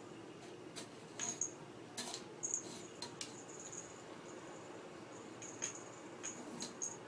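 Dry food rattling and clicking inside a drink-bottle treat puzzle toy as a kitten knocks it about: irregular short clicks and rattles, a cluster of them about one to three seconds in.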